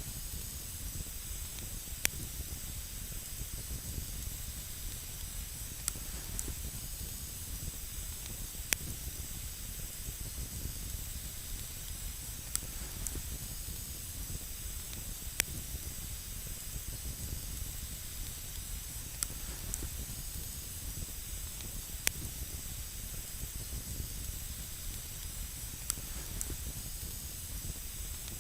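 Wood campfire burning with a steady hiss and a low rumble, with sharp single crackling pops every few seconds.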